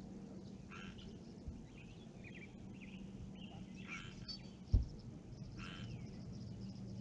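Frogs calling, a short croak every second or two, with faint bird chirps between the croaks over a steady low hum. A single low thump about two-thirds of the way through is the loudest sound.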